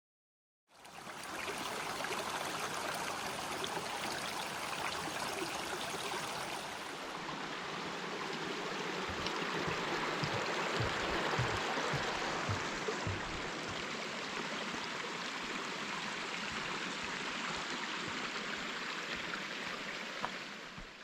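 Steady rush of a creek's running water, fading in a moment after the start and dropping away just before the end, with a few low thumps in the middle.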